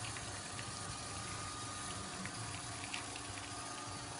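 La Marzocco espresso machine brewing a shot: the pump runs with a steady low hum under the rush of water through the group head, with a few faint ticks.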